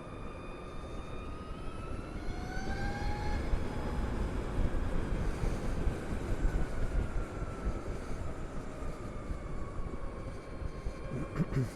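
Harley-Davidson LiveWire electric motorcycle underway: the motor's whine climbs in pitch as it speeds up, then eases back down, over low wind rumble on a helmet-mounted microphone. A brief knock comes near the end.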